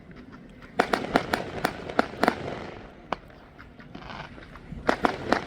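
Fireworks going off: two rapid strings of sharp cracks and bangs, the first about a second in and the second near the end, with a single crack between them.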